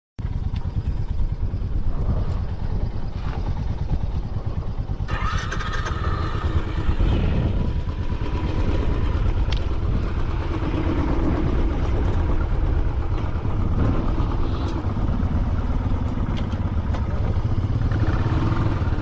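Royal Enfield Classic 500's single-cylinder engine running steadily as the motorcycle is ridden.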